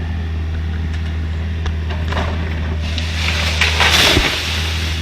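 Excavator's diesel engine running steadily, with a louder crackling, crunching burst about three seconds in.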